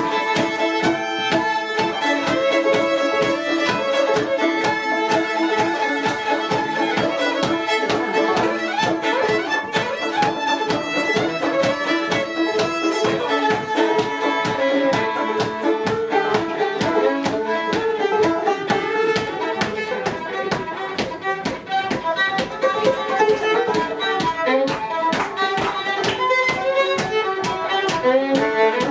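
Fiddle playing a lively traditional tune over a steady driving beat of rhythmic accompaniment.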